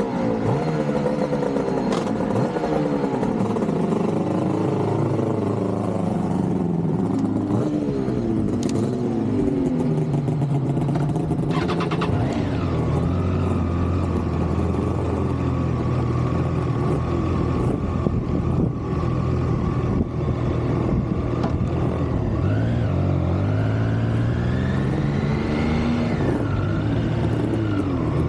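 Yamaha RD500R's V4 two-stroke engine under way on the road, its pitch rising and falling again and again as it revs up and drops back.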